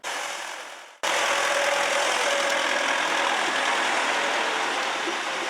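Street-watering truck's engine running close by under a steady hiss of water spray, starting suddenly and growing louder about a second in.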